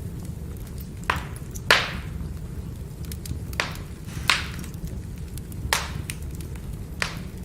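Burning firewood crackling: about six loud sharp snaps at uneven intervals, with fainter ticks between them, over a steady low rumble of the fire.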